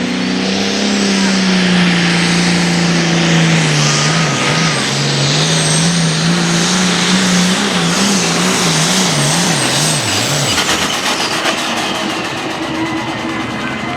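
Diesel pulling tractor running at full power down the track, with a loud roar and a faint high whine over a strong engine note. From about four seconds in the engine note wavers rapidly up and down, and it drops away about ten and a half seconds in as the power comes off.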